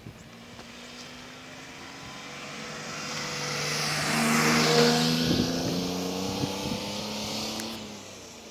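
A motor vehicle drives past, its engine and tyre noise growing louder to a peak a little before halfway and then fading as it moves away.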